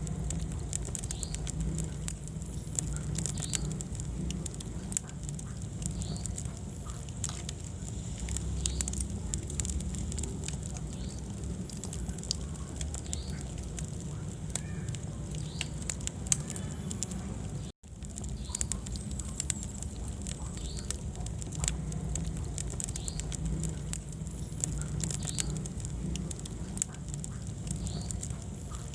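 Wood fire burning in a fireplace: steady crackling with many small pops over a low rumble of the flames. The sound drops out for an instant about two-thirds of the way through.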